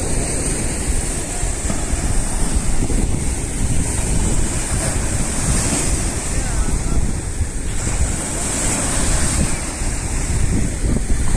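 Wind buffeting the microphone in a heavy, uneven low rumble, over the steady wash of sea waves breaking on the shore.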